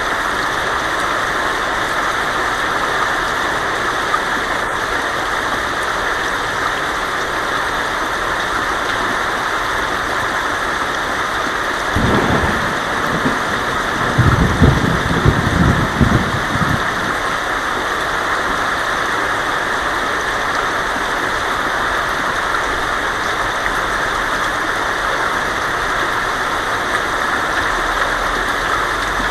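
Heavy rain drumming steadily on a tin roof. About twelve seconds in, a rumble of thunder rolls in and swells for about five seconds before dying away.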